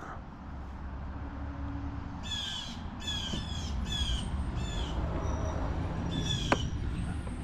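A bird calling repeatedly: about six short calls, starting about two seconds in, over a steady low rumble.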